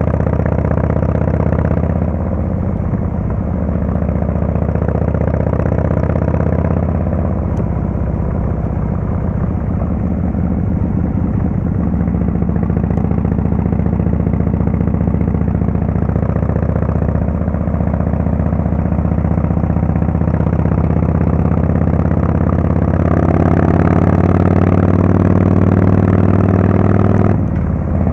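Harley-Davidson Fatboy S's Screamin' Eagle Twin Cam 110 V-twin running through a Kesstech valved exhaust under way, its note rising and falling with the throttle. It climbs steadily near the end, then drops off for a moment, as at a gear change, and picks up again.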